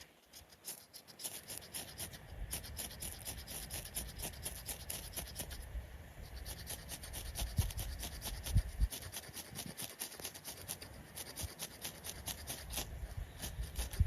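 Rapid, repeated scraping strokes, many a second, from working fire-lighting material by hand. Wind buffets the microphone in low gusts around the middle.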